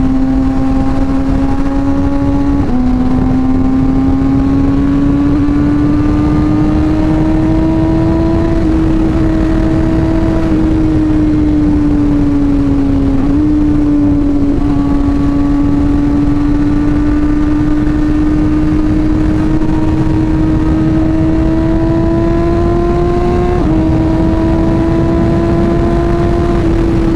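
Sports motorcycle engine running at road speed, its pitch slowly rising and falling with the throttle, with a couple of sudden drops in pitch, over a steady rush of noise.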